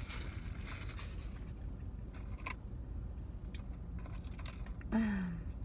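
Close-up mouth sounds of a person biting and chewing a bacon cheeseburger, with small crunches and wet clicks over a steady low hum. Near the end comes a short hummed "mm" that falls in pitch.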